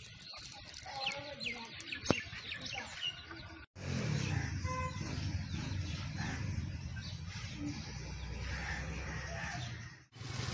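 Small birds chirping in quick short notes outdoors; after an abrupt cut, a steady low rumble of wind or distant traffic, with a single short bird call about a second in.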